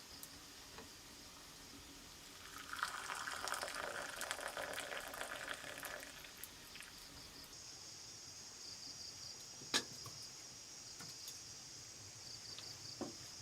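Water bubbling and splashing for about three and a half seconds, starting a couple of seconds in, over a steady high drone of jungle insects. A single sharp click comes near the end.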